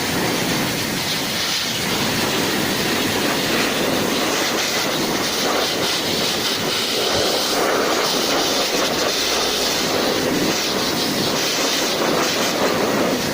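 Hair dryer running, a steady rush of blown air that swells and eases slightly as the airflow shifts.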